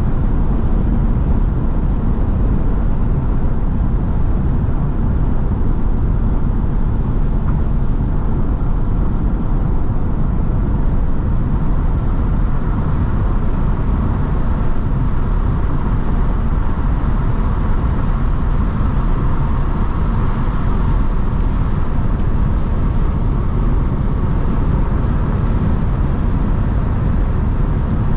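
Mercedes-AMG C43 cruising at a steady speed: a continuous low drone of engine, exhaust and road noise with no revving or gear changes, getting a little brighter about a third of the way through.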